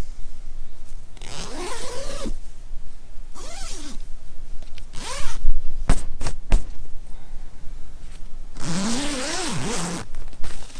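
A zipper pulled in four rasping strokes whose pitch rises and falls with the pull speed, the last one the longest, with a few sharp clicks in between.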